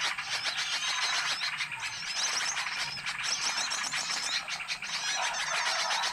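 A dense chorus of many small birds chirping and twittering at once, overlapping rapid calls: a bird-lure recording for attracting small wild birds.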